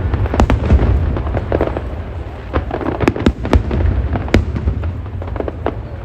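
Aerial fireworks exploding in rapid succession: a dense run of sharp bangs and crackles at irregular intervals over a continuous deep rumble of shell bursts.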